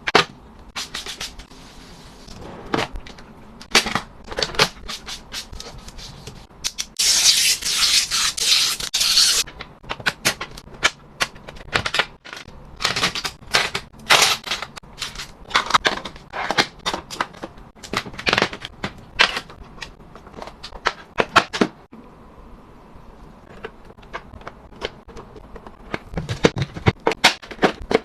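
Items being handled and set down: many sharp clicks and taps of small hard objects, like plastic lids and containers, with a stretch of rustling lasting about two seconds near the start.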